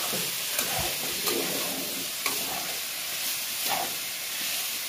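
Minced chicken with onion sizzling as it is sautéed in a wok, stirred steadily, with the spatula scraping and clicking against the pan a few times.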